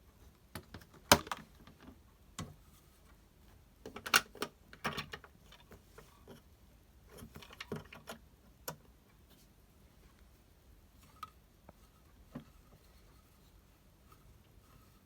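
Scattered sharp clicks and light knocks from a toy washing machine being handled. The loudest click comes about a second in, with clusters of clicks around four and seven seconds in, then a few faint ticks.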